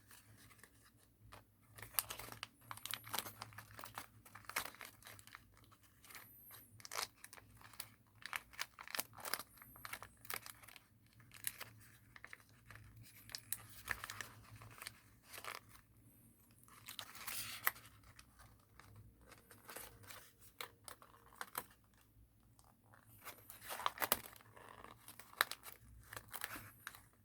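Thin origami paper being spread and stretched open by hand, crinkling and crackling irregularly with a few short pauses.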